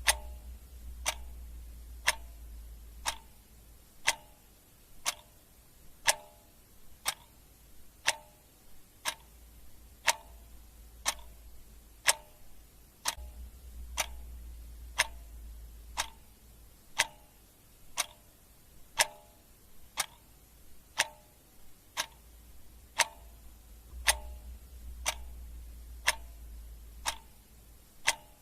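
A clock ticking steadily, one sharp tick about every second, under a low rumble that swells and fades a few times.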